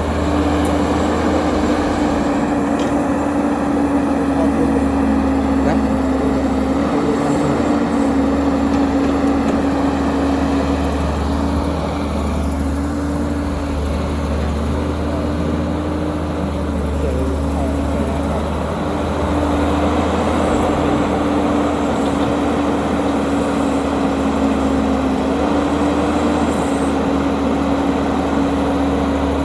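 Heavy diesel engine of earthmoving machinery running steadily, a constant deep drone with a hum that shifts slightly in pitch now and then.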